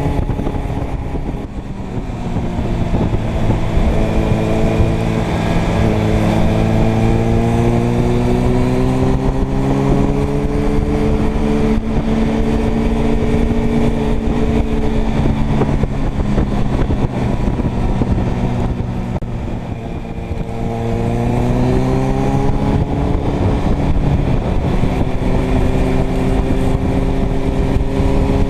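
Inline-four motorcycle engine under way over a rush of wind. Its note climbs as the bike accelerates a couple of seconds in and then holds steady. It drops back with the throttle eased about two-thirds through, then climbs again.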